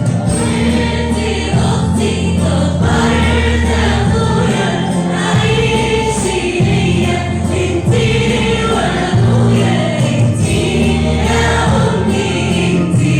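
Arabic Christian hymn: choir-like singing over instrumental backing with sustained bass notes.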